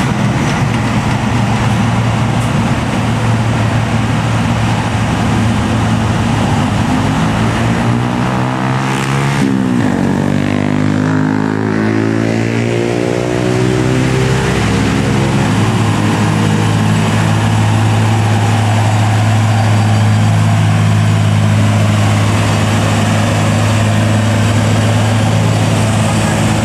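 Heavy diesel truck engine running under hard load on a steep climb, a steady low drone. Around ten seconds in the pitch sweeps as the engine sound shifts, then it settles back into a steady labouring drone.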